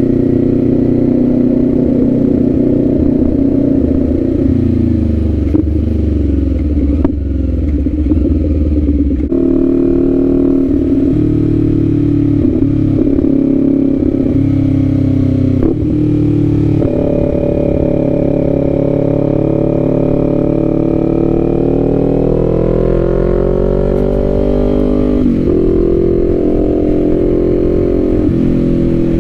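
Kawasaki Z400's parallel-twin engine under way on the road. Its pitch falls over the first several seconds, with breaks about ten and seventeen seconds in. It then climbs steadily as the bike accelerates and drops sharply at a gear change about twenty-five seconds in.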